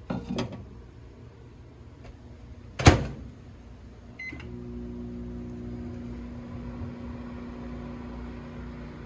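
Microwave oven in use: a few clicks, a loud clack of the door shutting about three seconds in, a short keypad beep, then the microwave starts running with a steady hum.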